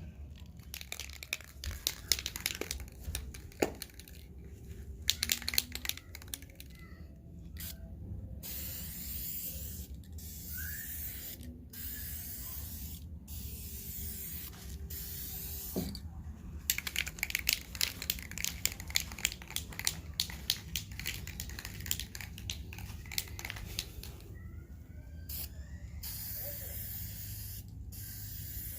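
VHT aerosol tint spray can spraying in repeated bursts of a second or more each, hissing on and off, with quick clicking sounds between bursts.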